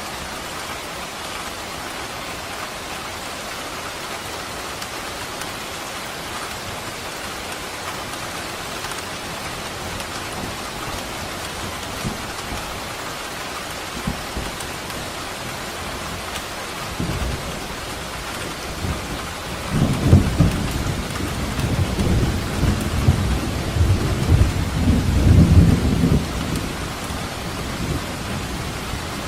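Steady rain falling, with a roll of thunder rumbling low and loud about two-thirds of the way through, then fading.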